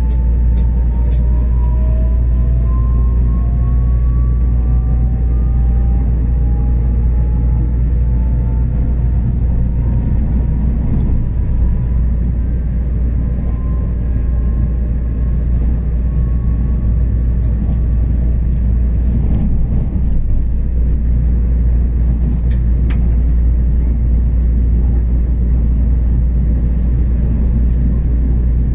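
Express passenger train running along the track, a steady heavy rumble with faint whines that slowly rise in pitch over most of the first twenty seconds.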